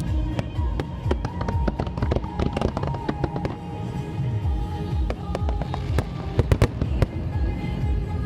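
Aerial fireworks display: shells bursting and crackling, with a quick run of loud bangs about two thirds of the way through, over the show's accompanying music.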